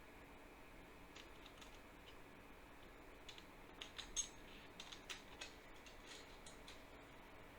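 Faint, irregular light clicks and taps over a quiet background, thickest and loudest about four seconds in.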